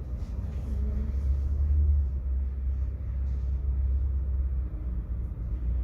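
Tram running along its track: a steady low rumble.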